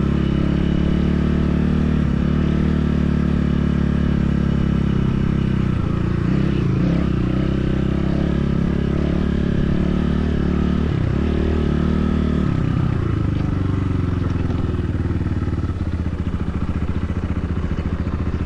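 BSE enduro motorcycle engine running under way, its pitch dropping and picking up again about six seconds in and again around eleven to twelve seconds in.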